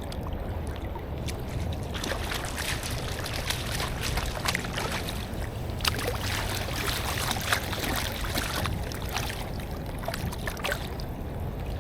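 Steady rushing of river water with a low rumble of wind on the microphone. From about two seconds in until near the end, many small sharp ticks and taps are scattered through it.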